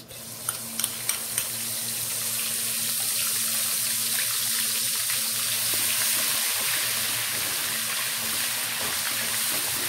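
Ginger-garlic paste sizzling in hot oil in a nonstick wok: sharp crackles and spits as it hits the oil in the first second or so, building into a steady hiss as it fries to a light brown.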